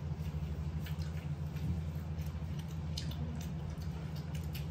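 A man chewing a mouthful of raw cucumber: scattered soft, wet clicks, over a steady low hum.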